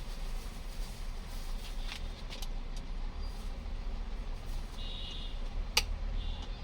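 A few sharp clicks from plastic drum-unit parts being handled, over a steady low background rumble. One sharp click near the end is the loudest.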